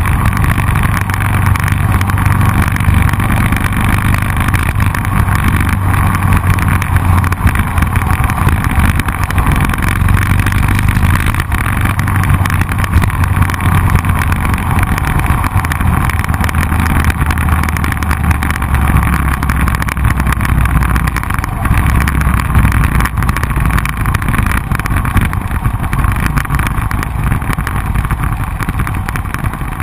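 Motorcycle engine running at a steady cruise, heard from a camera on the bike's handlebars, with a steady rush of wind and road noise. In the second half the engine note drops a couple of times as the bike slows.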